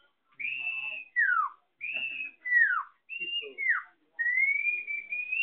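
A person whistling an imitation of a bird call: three times a short held note followed by a quick downward slide, then a long, slowly rising whistle near the end.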